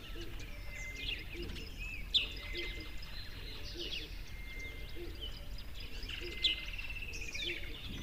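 Songbirds calling: scattered short, sharp chirps and a trilled call, with two louder chirps about two seconds in and near the end. Beneath them a low note repeats about once a second over a steady low hum.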